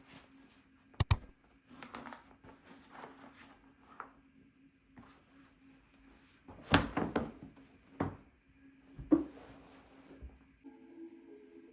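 Objects being handled indoors: a sharp double knock about a second in, then scattered knocks, clatters and rubbing over a faint steady hum. Near the end a different steady humming tone sets in.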